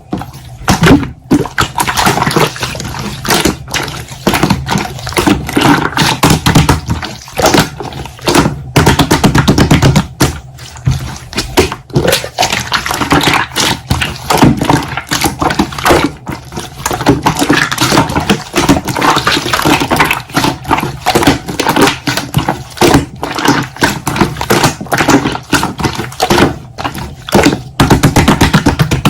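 Slime being squeezed, pressed and stretched by hand, giving a dense run of wet clicking and crackling pops.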